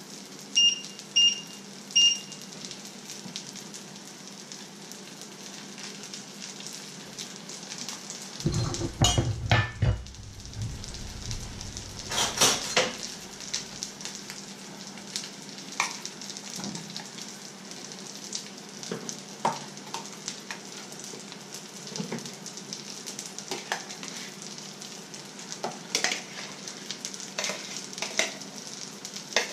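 Breaded fish fingers frying in a pan, a steady sizzle. Near the start the hob's touch controls beep three times, and later come a low clatter, a louder crackle and scattered clinks of utensils against pots.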